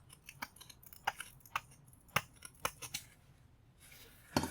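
Irregular light clicks and taps from small hard objects being handled on a workbench, about a dozen over the few seconds.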